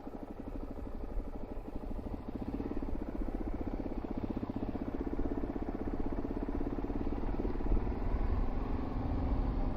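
Suzuki DR-Z400 single-cylinder dual-sport motorcycle engine running under way at low speed, heard from the rider's helmet camera, with low wind and road rumble. It grows gradually louder as the bike picks up speed.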